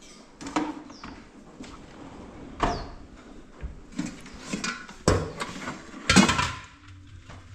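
Pots, pan lids and dishes being handled and set down: a run of separate knocks and clatters, the loudest a little after six seconds in.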